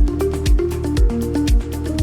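Background music: an electronic track with a steady kick drum about twice a second, ticking hi-hats and a short repeating melody over a bass line.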